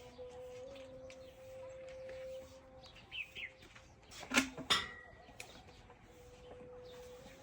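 Farmyard birds calling, with a few short chirps about three seconds in and two sharp, loud calls, typical of chickens, about four and a half seconds in, over a faint steady hum.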